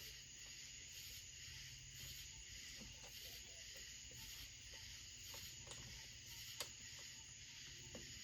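Near silence: a faint steady hiss of background noise, with a few small clicks, the clearest about six and a half seconds in.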